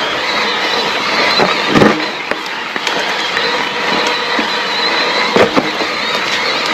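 Electric mountain bike riding fast down a rough trail: a steady rush of tyre and wind noise with rattling from the bike. Sharp knocks come about two seconds in and again about five and a half seconds in, as the bike hits bumps.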